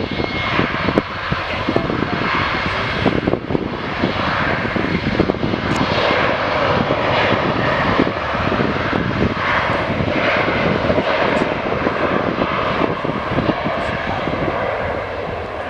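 Jet airliner's engines at high power for takeoff: a loud, steady rushing noise with a rough, crackling edge.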